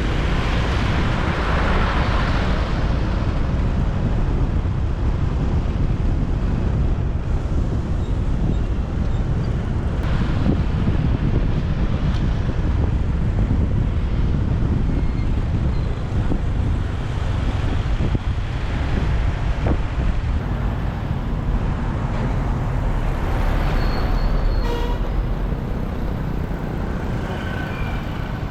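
Steady wind rumble on the microphone with road and traffic noise, heard from a motorbike riding through city traffic. A brief higher tone sounds near the end.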